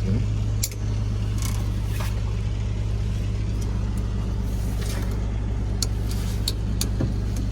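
Steady low engine hum, with a few light clicks and taps over it.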